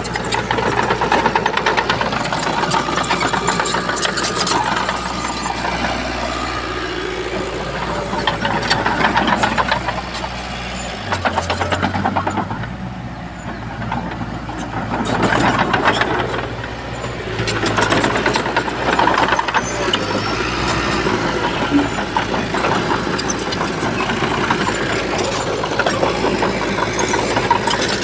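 Shantui bulldozer's diesel engine running under load, its note shifting as the throttle changes, with rattles and clanks from the machine working.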